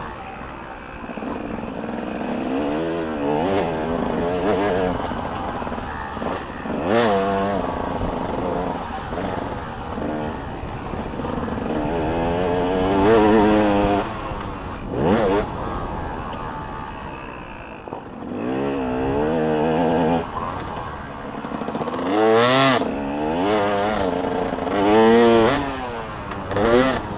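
Motocross dirt bikes racing, several engines revving up and down in pitch as riders work the throttle and gears, swelling loud as they pass close a few times.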